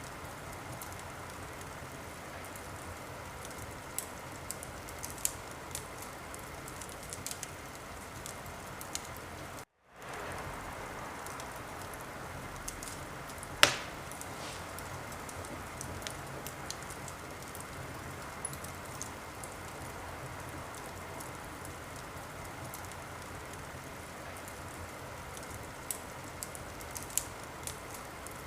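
Wood fire burning in a fireplace: a steady hiss with scattered sharp crackles and one loud pop about halfway through. The sound cuts out to silence for a moment about ten seconds in.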